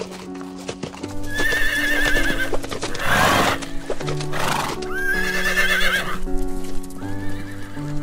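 Two high, warbling equine whinnies a few seconds apart, with two short harsh, rasping calls between them, over background music of steady keyboard notes.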